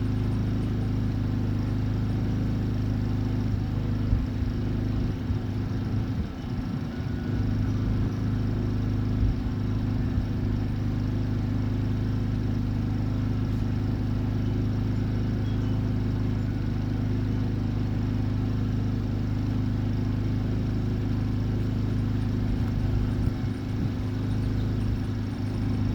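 Steady low machine hum that does not change in pitch, with a few brief low bumps and knocks near the start and again near the end.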